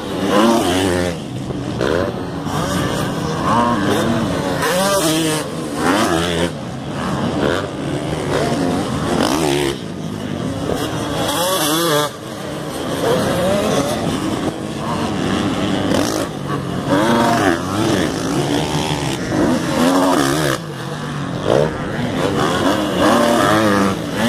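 Several motocross bikes running together, their engines revving up and dropping back over and over with throttle and gear changes.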